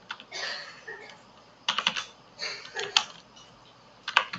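Typing on a computer keyboard: short clusters of keystrokes, the sharpest just before two seconds in, around three seconds and near the end.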